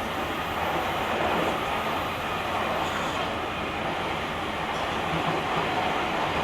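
Steady running noise of a JR Kyushu 883 series limited-express train at speed, heard from the vestibule of a motor car: wheels on rail with a continuous rumble, and no clear motor tone.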